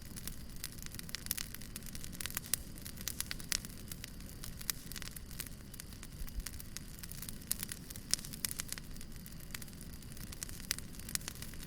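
Wood fire burning with frequent sharp, irregular crackles and pops over a steady low rumble and hiss.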